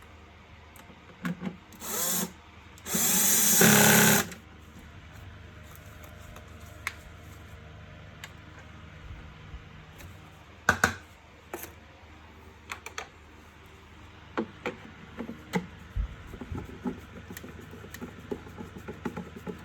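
Electric screwdriver driving screws into the vacuum cleaner's plastic housing: two short runs, then a longer, louder one, followed by scattered clicks and knocks of plastic parts being handled.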